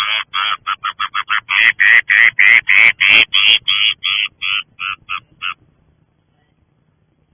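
A bird giving a rapid series of short, harsh calls, about four or five a second. The calls get shorter and stop about five and a half seconds in.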